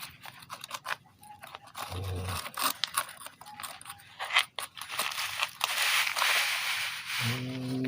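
Toy dump truck tipping its bed, with plastic scraping and clicking as loose fill slides and pours out in a rushing hiss over a couple of seconds. A steady low hum starts near the end.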